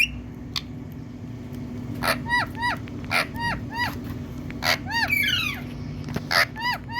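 Indian ringneck parrot giving runs of short, arched calls, several in quick succession from about two seconds in, mixed with harsher screeches, over a steady low hum.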